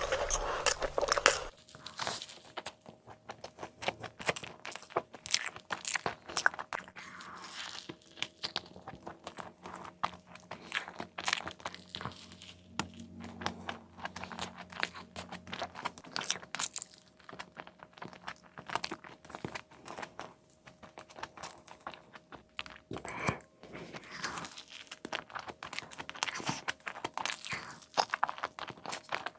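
Close-miked crunching and chewing of crispy fried food, a chicken burger, with many quick crackles as it is bitten and chewed. It is loudest in the first second or so.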